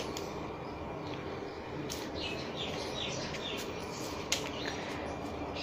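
Faint bird chirps, a quick run of them about two seconds in, over steady background noise, with one sharp click about four seconds in.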